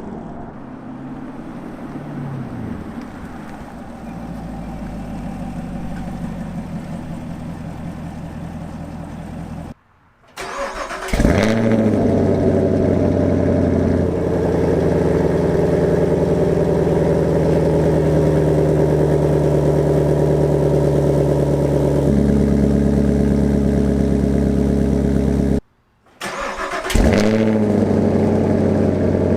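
A 2020 Camaro SS's 6.2-litre V8 running through Borla S-Type axle-back mufflers. For the first ten seconds it runs quieter, its pitch falling once. Then it is cold-started twice, each start a sudden loud flare of revs that settles into a steady, deep, loud idle.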